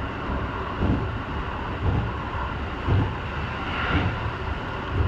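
Electric train running at speed, heard from inside the driver's cab: a steady rumble of wheels on rail, with a low thump about once a second as the wheels cross rail joints.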